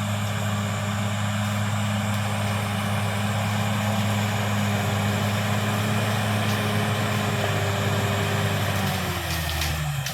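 Caterpillar D6R XL bulldozer's diesel engine running steadily; about nine seconds in, its note drops as the engine slows.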